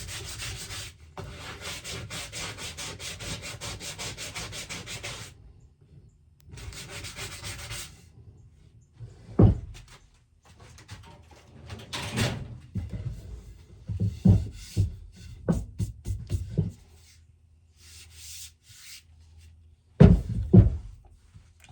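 Rapid, even abrasive rubbing on wood, stopping and starting again, then a series of loud, sharp knocks on wood, several in quick succession and two more near the end.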